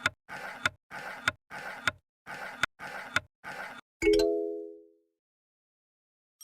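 A rhythmic scratchy sound effect, about seven short strokes each ending in a click, then a single bell-like ding about four seconds in that rings out for about a second.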